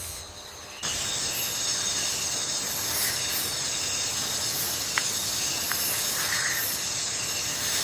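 A steady hiss that starts abruptly about a second in, with two faint clicks in the middle.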